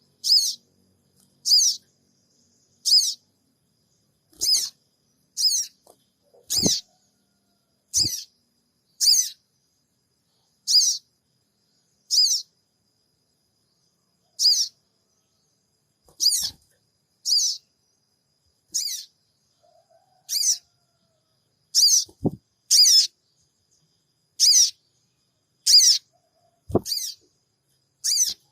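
Sogon bird giving short, high 'cingik' calls over and over, roughly one a second, with a couple of short pauses. A few faint knocks sound underneath.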